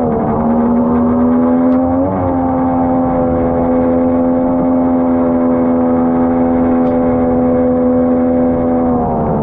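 Outboard jet motor on an inflatable boat running at steady speed. Its pitch dips briefly at the start, rises slightly about two seconds in, and drops near the end as the throttle comes back.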